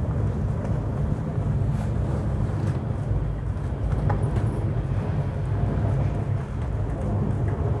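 Steady low rumble of a Rajdhani Express passenger coach running on the rails, heard from inside the coach, with a few faint clicks.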